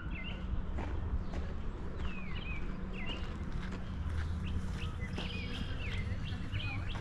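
Small songbirds chirping, a string of short, curved notes scattered through the few seconds, over a low steady rumble and soft footsteps.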